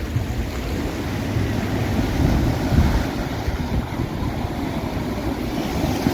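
Waves breaking and washing onto the beach, with wind buffeting the microphone into a steady low rumble.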